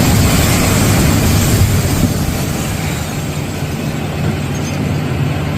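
Continuous low rumble of building demolition at the site, easing slightly about two seconds in.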